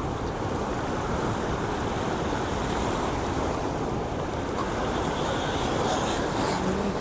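Water rushing through a large dam's open spillway gates: a steady, even rush of noise that holds at one level throughout.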